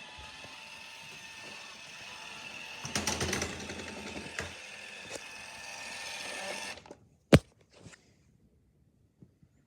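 Roomba robot vacuum running with a steady motor whine and brush rattle, cutting off abruptly about seven seconds in, followed by a single sharp click.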